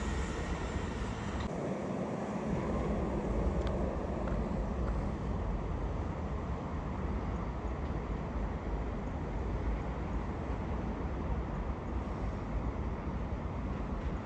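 The last of a passing train fading away in the first second or two, leaving a steady low outdoor rumble of background noise with a few faint clicks.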